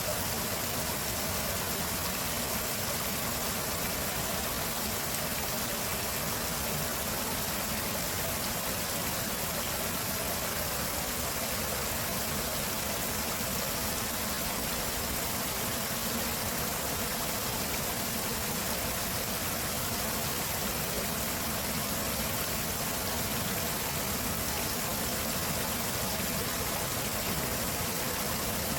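Flowing water rushing steadily, an even continuous noise with no breaks or separate splashes.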